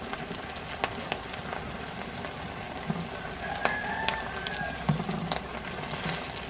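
Nopal strips and chopped onion frying in hot oil in a clay cazuela: a steady sizzle with scattered small pops. In the second half a slotted wooden spatula stirs the vegetables, knocking and scraping against the clay.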